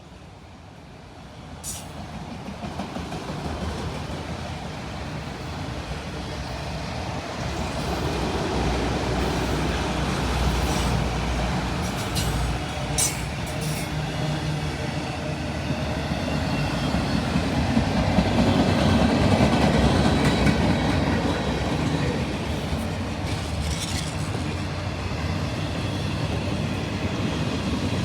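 CSX freight train rolling past on the rails, growing louder over the first several seconds as it comes close, then a steady rumble of wheels with rail-joint clacks, a few sharp clanks and faint wheel squeal.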